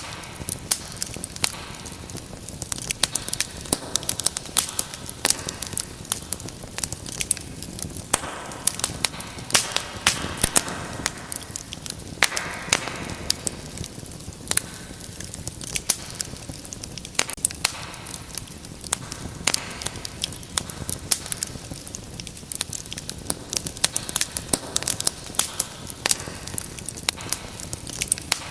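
Wood fire crackling: frequent sharp pops and snaps over a steady low rumble of flames, with a brief hissing swell in the middle.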